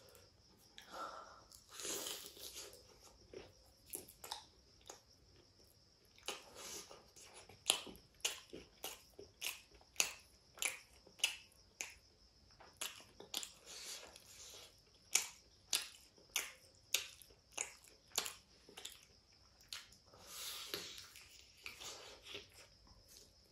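Close-miked chewing and biting of fried chicken lollipop: a run of sharp wet mouth clicks, about two a second through the middle, with softer crunching between.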